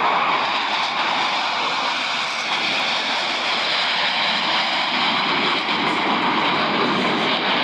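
Blue Angels F/A-18 Super Hornet jets flying past in close formation, a loud, steady jet roar.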